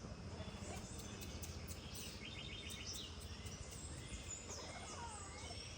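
Birds calling over a steady low background noise: a quick pulsed trill about two and a half seconds in, then several short gliding whistles near the end.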